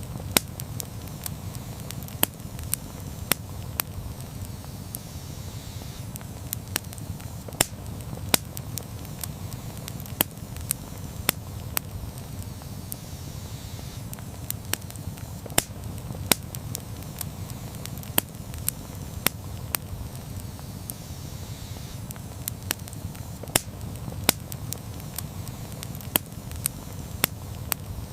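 Wood campfire burning with a steady low rumble of the flames and frequent sharp, irregular pops and crackles of burning wood.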